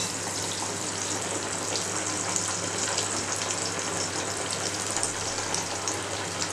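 Mathri dough pieces deep-frying in hot ghee: a steady sizzle with fine crackles as more pieces are slid into the fat.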